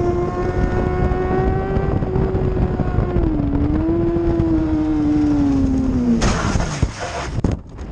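A 600cc inline-four racing motorcycle engine held at high revs, its pitch dipping once and then sliding gradually lower. About six seconds in, the engine note gives way to a sudden loud hissing noise lasting about a second, then the sound drops away.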